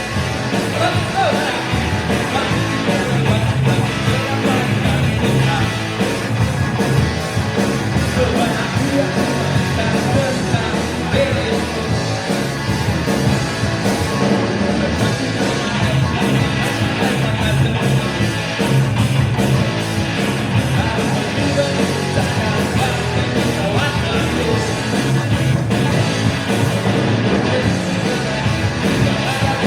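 A live band playing a song through a PA, with a steady beat, bass, guitar and a singing voice.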